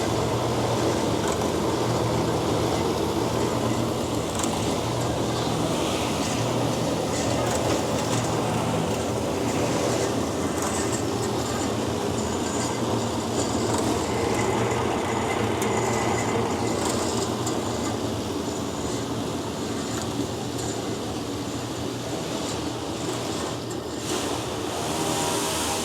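DoAll C-916M horizontal metal-cutting band saw running steadily: motor hum under the whir of the moving blade.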